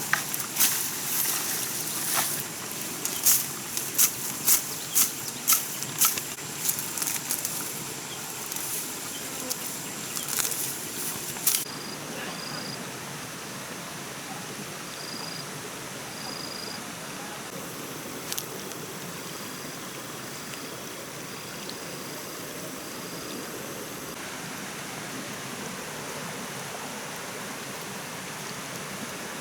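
A run of sharp knocks or strikes, about two a second at their most regular, that stop about twelve seconds in. A steady hiss runs underneath, with faint short high-pitched chirps after the knocks end.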